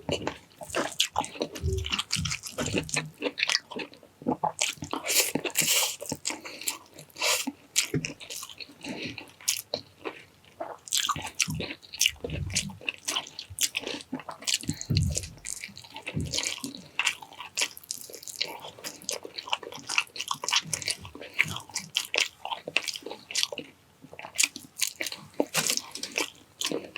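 A person chewing and biting food close to the microphone, with a constant run of irregular wet mouth clicks and crunches and a few low thuds.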